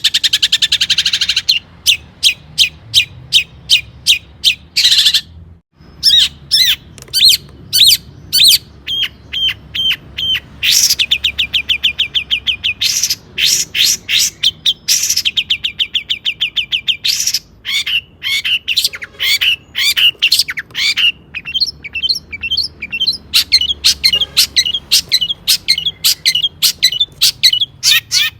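Long-tailed shrike (cendet) singing loudly: fast runs of sharp repeated chirps and rattling trills, with a brief gap about five and a half seconds in.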